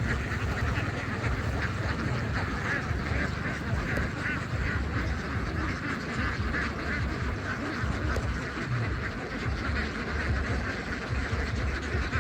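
A large flock of domestic ducks quacking continuously, many calls overlapping into a dense chorus, over a steady low rumble.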